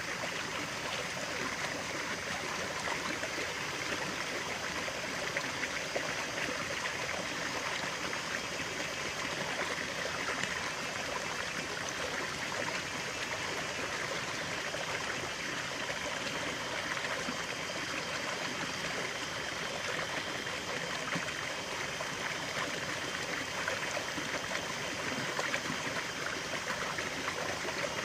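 Running water in a stream, a steady rushing and trickling.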